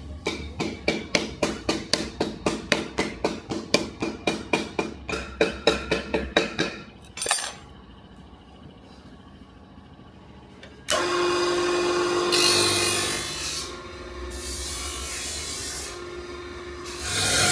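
Rapid, even strokes of a hand file or rasp, about four a second, ending in a single knock. A few seconds later a power tool starts up and runs steadily, its pitch and loudness shifting.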